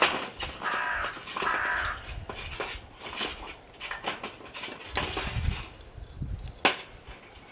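An animal calls twice, harsh and about half a second each, about a second in, followed by scattered clicks and knocks with one sharp click near the end.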